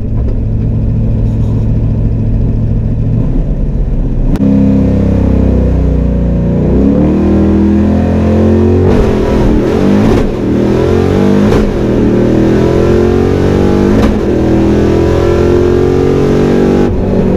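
Fox-body Mustang's 5.0 V8 with long-tube headers and open exhaust held at steady revs on the line, then launching hard about four seconds in and revving up through the gears of its manual gearbox, the pitch rising and dropping briefly at each shift: a quarter-mile drag pass.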